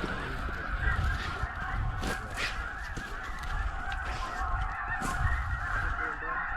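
A large flock of snow geese calling, many overlapping honks blending into a continuous chatter.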